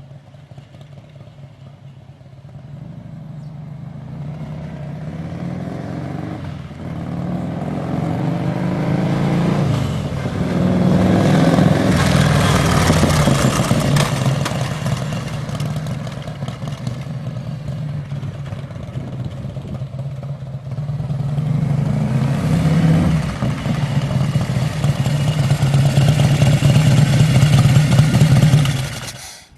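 Harley motorcycle with a 100 cubic inch RevTech Evolution-style V-twin running through fishtail mufflers, getting louder and revving, easing off, then building again twice over. The engine sound cuts off suddenly near the end.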